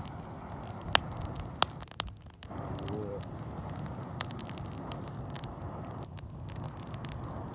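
Wood fire crackling with sharp pops, over a steady rushing of air blown through a fire-blowing pipe into the embers. The blowing breaks off briefly twice, about two seconds in and again near six seconds, as if for a breath.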